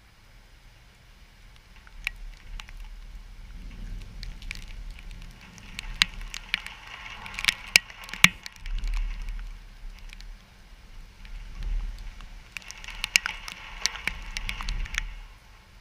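Wind and rain of a hurricane's outer band. Gusts rumble on the microphone while raindrops make scattered sharp taps and crackles. The rushing hiss swells twice, about six seconds in and again about twelve seconds in.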